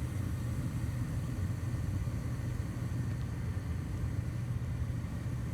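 Gas furnace running, with a steady low mechanical hum from its motors.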